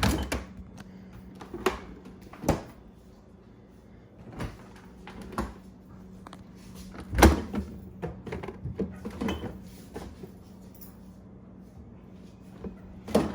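Refrigerator door being opened and shut over and over, a series of thumps and knocks with the loudest about seven seconds in, over a faint steady hum.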